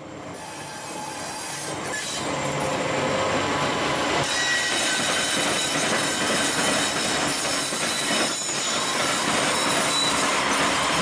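CSX freight train led by diesel-electric locomotives approaching and passing close by, the sound building over the first few seconds and then holding steady. Thin, high wheel squeal rides over the rumble from about four seconds in as the wheels take the curve.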